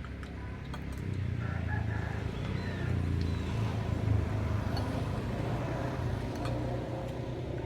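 Low steady rumble that builds about a second in and eases slightly near the end, with a few faint bird chirps.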